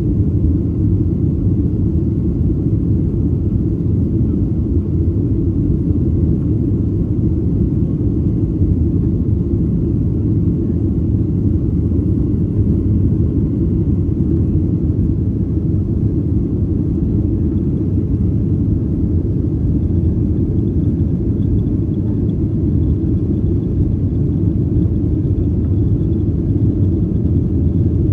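Steady low rumble inside the cabin of a Boeing 737-800: the noise of its CFM56-7B engines and the airflow, unchanging throughout.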